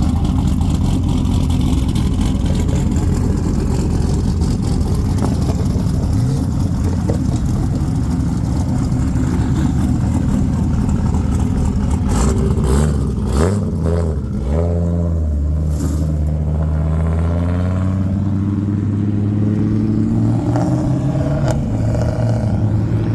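Loud performance-car exhausts: an engine rumbling at idle, then quick blips of the throttle about halfway through, followed by a steady engine note that slowly climbs in revs.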